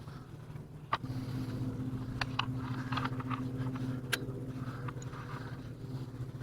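A small motor's steady low hum starts with a click about a second in and runs on evenly, with scattered light clicks and knocks.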